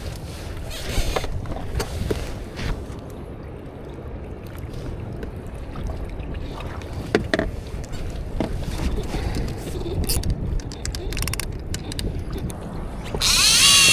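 Low wind and water rumble around a small boat with a few light knocks, then about 13 seconds in a fishing reel's drag starts buzzing loudly as a fish takes line.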